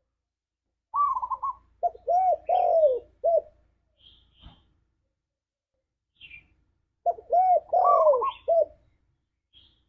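Spotted dove (tekukur) cooing: two phrases of several rising-and-falling coos, the first about a second in and the second about seven seconds in. Faint high chirps can be heard between them.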